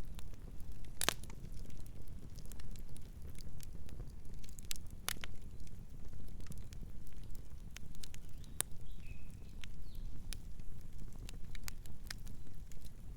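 Campfire crackling and popping: irregular sharp snaps of burning wood over a steady low rumble of the flames. A brief faint bird chirp about nine seconds in.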